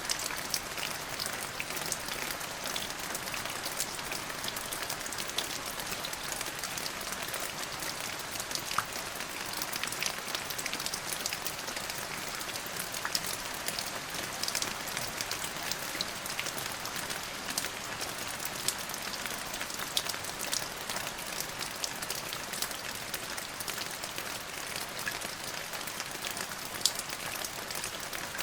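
Steady rain falling on a surface: an even hiss dotted with many sharp drop taps, with no thunder.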